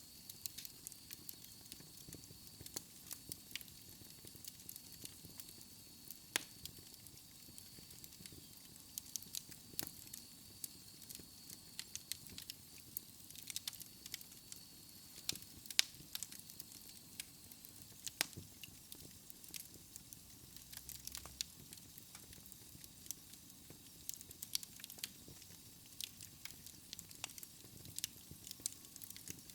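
A wood fire crackling, with frequent irregular sharp pops and snaps over a soft hiss. A faint thin high whistle runs through the first half, then fades out.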